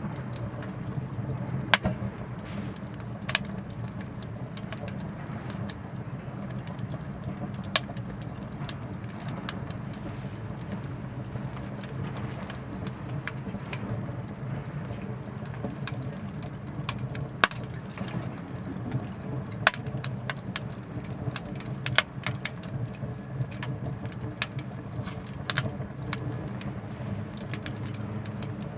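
Oak firewood burning in an Anevay Frontier Stove Plus wood stove: irregular sharp crackles and pops over a steady low rumble of the fire.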